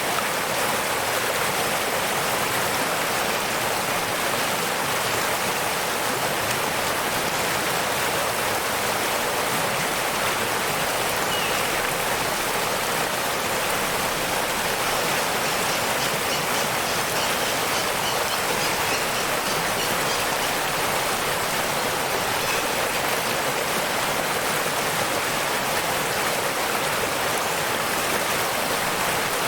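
Waterfall and stream water rushing steadily, an even hiss of falling water with no breaks.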